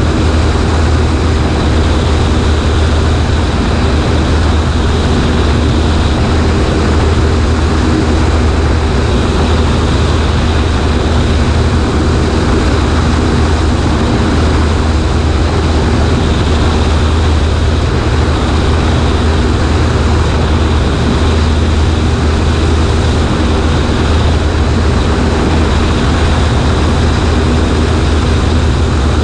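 Cessna 140A's piston engine and propeller running at a steady, unchanging speed, with rushing air noise, heard from out on the right wing.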